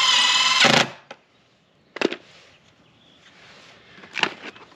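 Storm door and closer hardware being handled: a loud squeak lasting under a second at the start, then two sharp knocks about two seconds apart.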